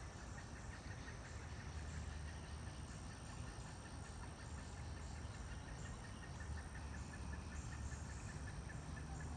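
Insects chirping steadily, crickets or katydids repeating a pulsing call in even rhythm, over a low outdoor rumble.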